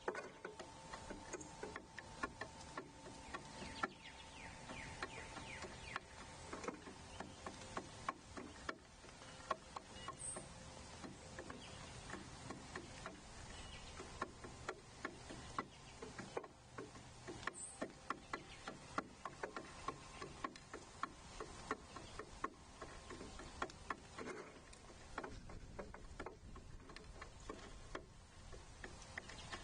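Birds pecking seed on a feeder platform: faint, irregular clicking taps, several a second.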